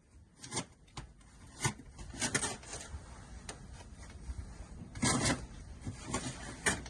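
Scattered rubbing and scraping with irregular light clicks and knocks, the loudest a short cluster about five seconds in.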